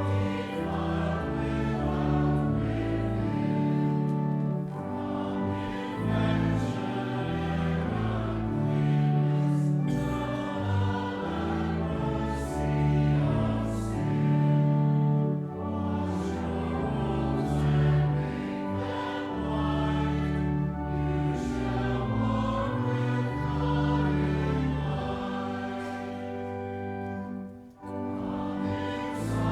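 Choral music: voices singing slow, sustained chords over held low notes, with a brief break between phrases near the end.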